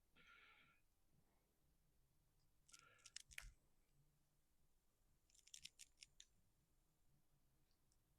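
Near silence, with faint clicks and scratching from small parts being handled and fitted by hand, in two short clusters about three seconds in and between five and six seconds in.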